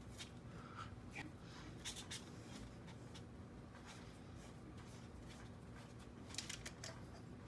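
Faint rustling, rubbing and a few light clicks of hands working on something, over a steady low hum.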